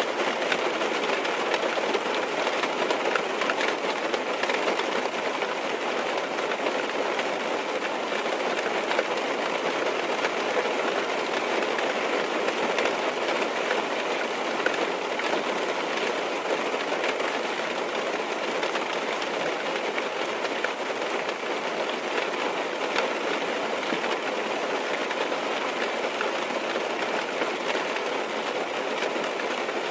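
Rain drumming steadily on a car's roof and windows, heard from inside the car: a dense, even patter with no let-up.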